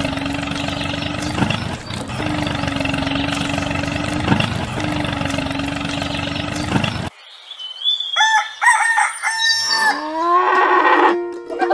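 A small motor running steadily with a constant hum and grinding noise, as the toy tractor pulls its roller, cutting off suddenly about seven seconds in. A rooster crows and hens cluck after it, and music starts near the end.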